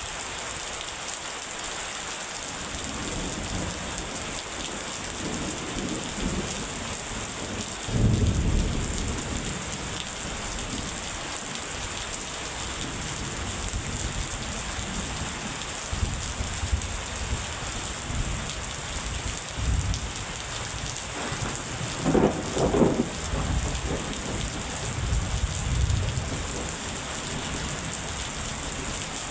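Steady heavy rain falling, with thunder rumbling through it: a sudden louder peal about eight seconds in and another burst of cracking thunder about three quarters of the way through.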